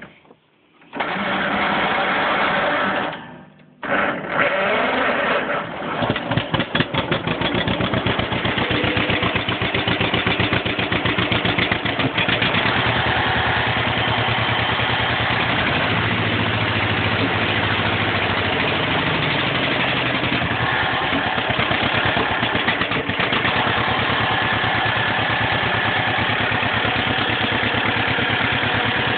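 Cold start of a 1953 John Deere 40C crawler's two-cylinder engine, through a Cherry Bomb muffler. A first try about a second in lasts two seconds and stops; on the second try, just before four seconds in, the engine catches, fires unevenly for a few seconds, then settles into a steady run with a rapid, even popping.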